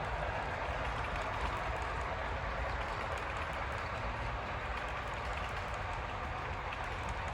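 HO scale model passenger train rolling along the track: a steady rushing noise of metal wheels on the rails, with faint small clicks.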